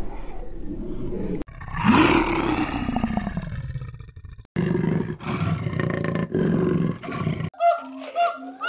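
A string of spliced wild-animal calls. It opens with a long, loud roar that falls in pitch, followed by a muffled clip of deep repeated calls. Near the end come short honking calls, about two a second.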